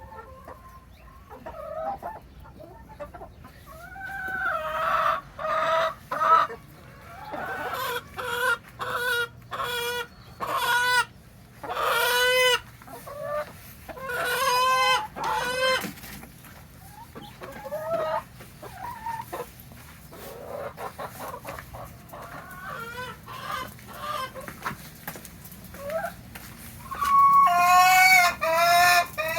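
Backyard chickens clucking and calling back and forth: a run of short clucks, with several louder drawn-out calls, the loudest near the end.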